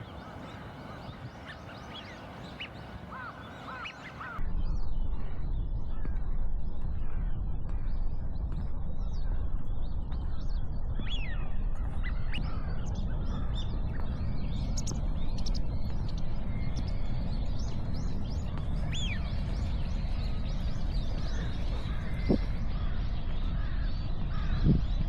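Wild birds giving many short calls and chirps. About four seconds in, a steady low rumble starts abruptly underneath them and the sound gets louder.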